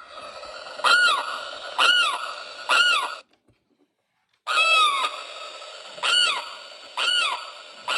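Recorded limpkin call played through a bird clock's small speaker: a series of loud arching cries about a second apart, in two runs with a break of about a second near the middle.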